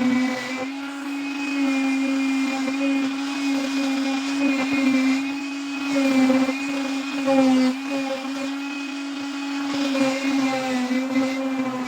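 Electric grinder running steadily, grinding rust off a steel saw blade; its hum wavers slightly in pitch and loudness.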